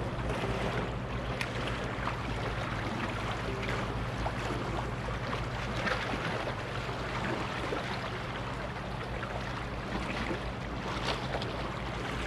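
Sea waves washing against a rocky shore with wind noise, steady throughout, over a constant low hum and a few faint clicks.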